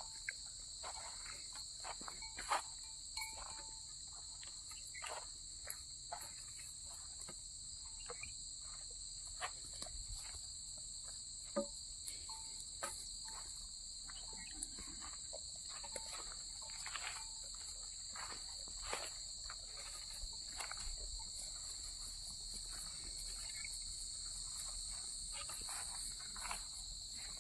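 A steady, high-pitched insect chorus sounds throughout, with scattered sharp clicks and snaps at irregular times.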